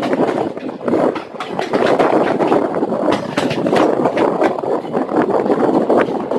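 Passenger train coach running along the track: a loud steady rumble with the rattle of the coach and many sharp clacks of the wheels on the rails.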